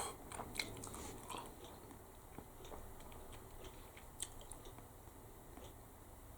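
Faint mouth sounds of a person chewing fresh, chewy noodles: soft, scattered clicks and smacks, busiest in the first second or two, with one sharper tick about four seconds in.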